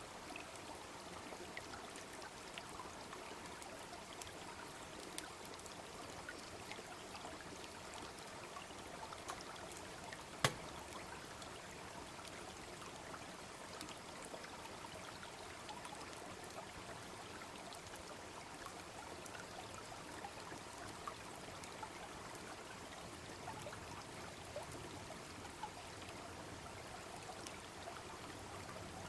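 Babbling brook flowing steadily, with a wood bonfire crackling over it in small sharp pops, and one loud crack about ten seconds in.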